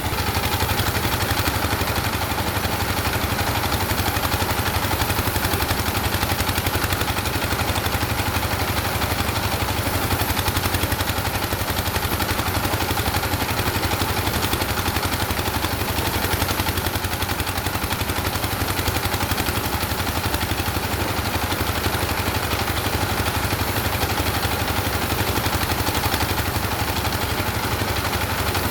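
An engine running steadily at a constant speed, with a fast, even pulsing beat.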